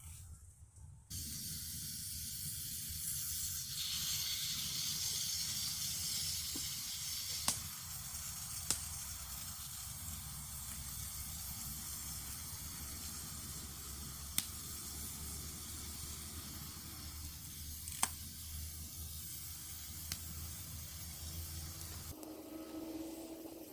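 A foam fire extinguisher, heated in a bonfire, suddenly starts discharging under pressure: a loud, steady spraying hiss that sets in about a second in and lasts some twenty seconds. Several sharp cracks sound through it, and the hiss drops away near the end.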